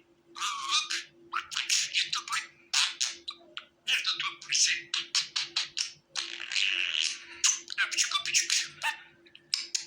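Budgerigars warbling and chirping in fast runs of short high calls, broken by a few brief pauses.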